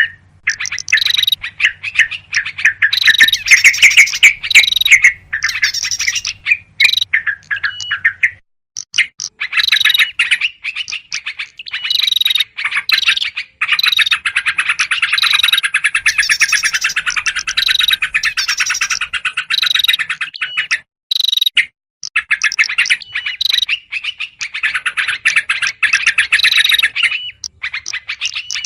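Yellow-vented bulbuls giving noisy, agitated chattering calls: dense runs of quick notes in long bursts with short breaks, a bird-luring recording meant to draw in small birds.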